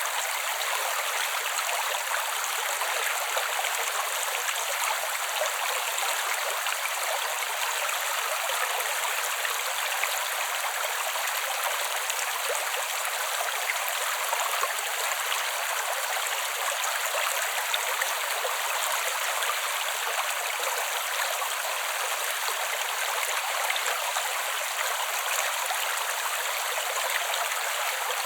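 Creek water flowing steadily, an even rushing babble with no deep rumble underneath.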